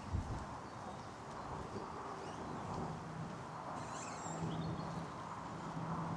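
Woodland songbirds chirping, with a brighter burst of high chirps about four seconds in, over the walker's faint footsteps on the path.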